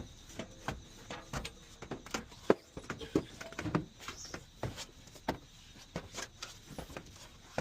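Irregular knocks and clunks, two or three a second, with one sharper, louder knock about two and a half seconds in.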